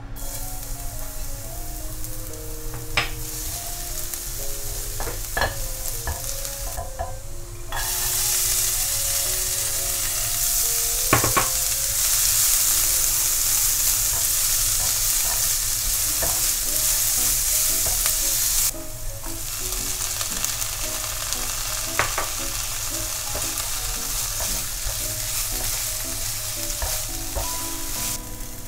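Garlic and diced carrot and onion sizzling in oil in a ceramic-coated frying pan as a silicone spatula stirs them, with a few sharp clicks of the spatula against the pan. The sizzle grows louder about eight seconds in and eases back a little later on.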